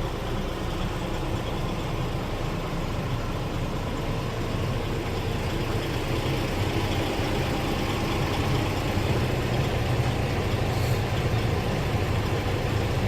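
Scania R450 tractor unit's 13-litre inline-six diesel idling steadily, growing slightly louder in the second half.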